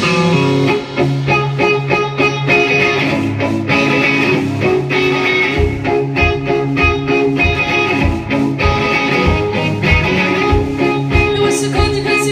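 Live rock band playing an instrumental passage without vocals: a repeating guitar figure to the fore over a steady drum beat and bass.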